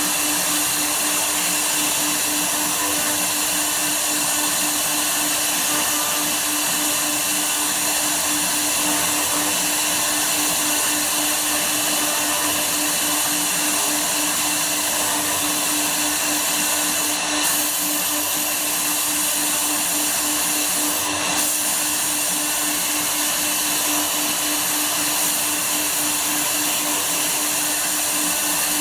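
Woodworking CNC router running steadily, its spindle motor giving a constant whine over a broad hiss as it cuts wood. Two brief clicks stand out, about two thirds of the way through and again a few seconds later.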